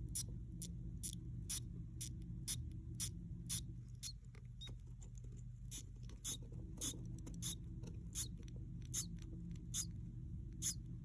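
Baby budgerigar chicks cheeping: short, high-pitched peeps repeated about twice a second, over a low steady hum.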